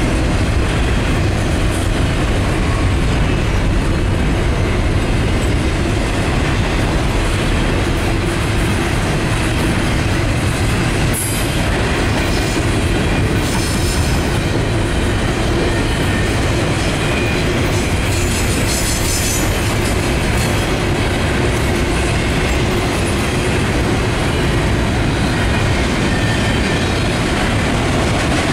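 Double-stack intermodal container well cars rolling past: a steady, loud rumble of steel wheels on rail. Brief high-pitched wheel screeches come through about a third and about two thirds of the way in.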